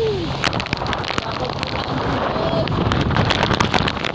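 Heavy typhoon rain and wind, with gusts buffeting the microphone and many sharp, scattered taps.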